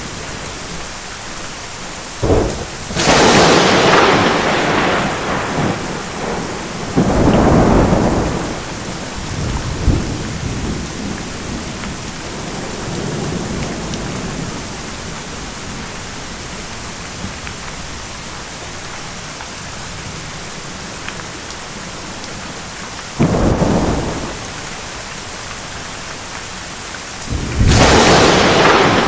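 Steady rain with thunder. There is a sharp crack about two seconds in, then four loud thunder crashes: one just after the crack, one a few seconds later, and two near the end. Each crash rolls off over a second or more.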